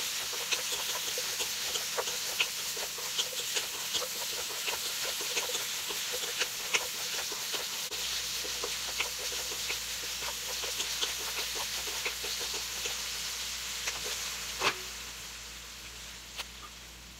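Bacon, onion and broccoli sizzling in butter in a wok, with a wooden spatula clicking and scraping against the pan as it is stirred, and one louder knock near the end. The sizzle grows fainter over the last few seconds.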